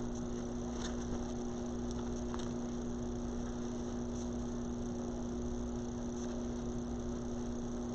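Steady electrical hum, two constant low tones over a light hiss, with a few faint ticks: room tone with no distinct event.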